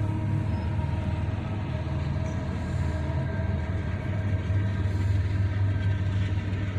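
GE diesel freight locomotives running with a steady low drone as a train approaches, heard from inside a car.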